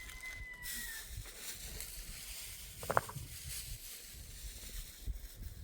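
The end of a rooster's crow, a long held note that fades out about a second in. A short sharp animal call follows about three seconds in, over low rumbling noise.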